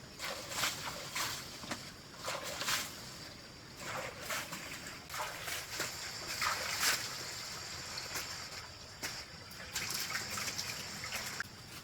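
Wet, squelching and splashing steps on muddy, rain-soaked ground, coming irregularly, one every half-second to a second.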